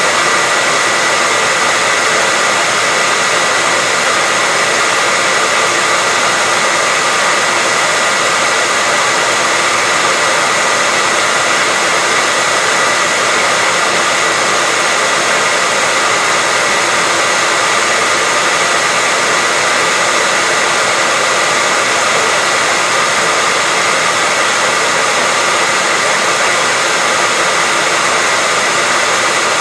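Electric hairdryer running steadily: an even rush of airflow with a steady high whine from the fan motor, unchanging throughout.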